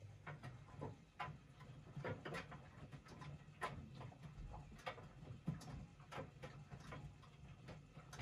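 Washing machine running with its drum turning: a low motor hum that starts at once, with irregular clicks and taps throughout.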